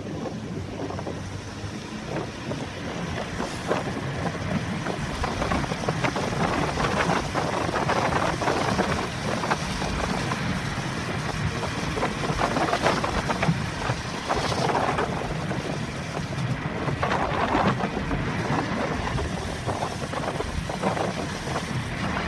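Inside a car driving through a typhoon, recorded by the dashcam: a steady low road-and-engine rumble under wind and rain noise that swells and fades in gusts every few seconds.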